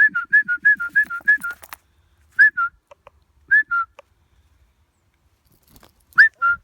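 A two-note whistle, each a short rising-and-falling higher note dropping to a lower held one, repeated quickly five times and then given singly three more times with pauses between.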